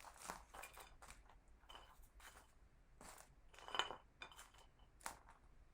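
Faint, scattered light clicks and taps of collected objects being handled and set down on a tabletop, the clearest one a little under four seconds in.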